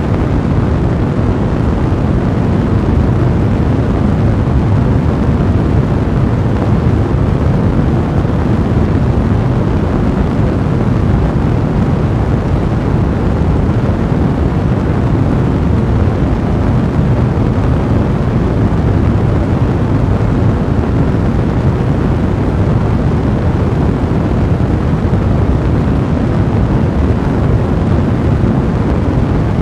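Fire blazing in a fireplace: a loud, steady, low rumble of noise that does not change.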